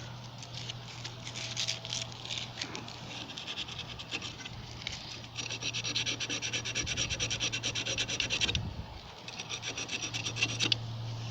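Abrasive scrubbing of a gas water heater's thermocouple, rubbing rapidly back and forth to clean it so the pilot stays lit. The strokes are light at first, run fast and steady for about three seconds from about five seconds in, and come again briefly near the end.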